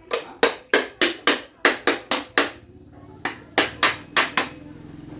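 Repeated hammer strikes, about three a second, in two runs with a pause of about a second, two and a half seconds in.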